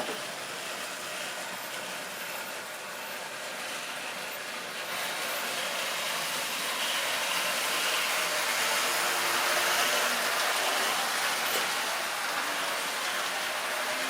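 Model railway train running along the track with a steady running noise that grows louder from about five seconds in, loudest around ten seconds, as it comes nearer.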